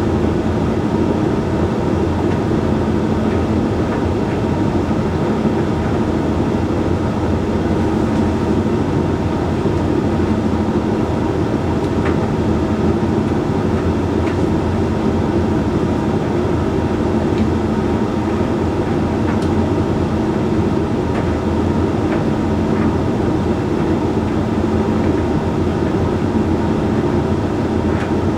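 Hoover Link X Care condenser tumble dryer running on its Whites drying cycle: a steady motor and fan hum with the drum tumbling the load, and a few faint clicks.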